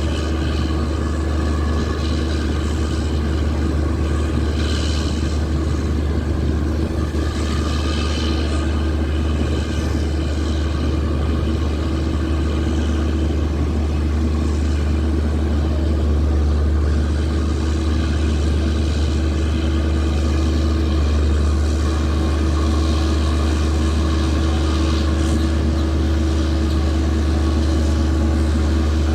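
Diesel generator sets of an Indian Railways train's generator car running steadily, a constant heavy drone with a deep hum and a higher steady tone above it.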